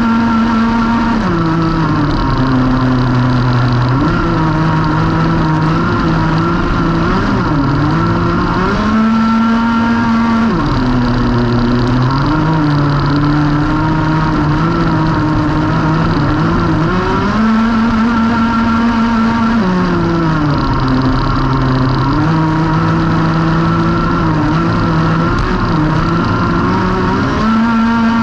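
Racing kart engine running hard at speed, its pitch holding high, dropping in quick steps, then climbing back again several times as it slows and accelerates around the track.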